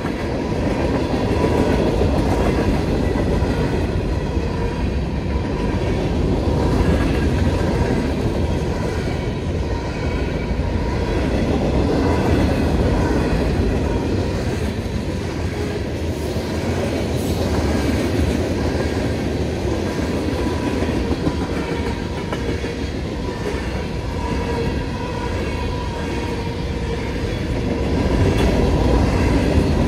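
Freight cars of a CSX train rolling steadily through a grade crossing: a continuous rumble and clatter of wheels on the rails. A steady ringing from the crossing's electronic bell sits above the train noise throughout.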